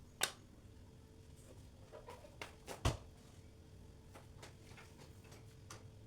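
A few separate sharp knocks and clicks over a faint steady hum. The loudest knock comes about three seconds in.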